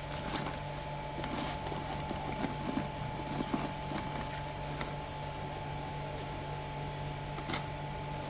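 A steady mechanical hum with a faint constant tone above it, overlaid by scattered small clicks and light knocks.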